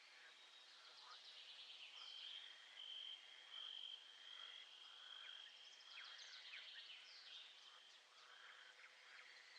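Faint natural soundscape: many birds chirping and calling, over a steady high-pitched trill that swells and fades.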